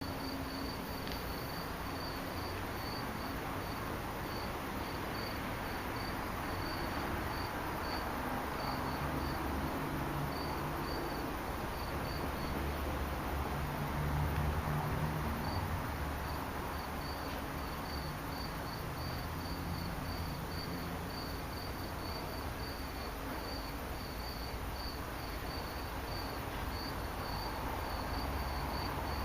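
Crickets chirping steadily, a high-pitched pulse about twice a second, over a low rumble that swells briefly about halfway through.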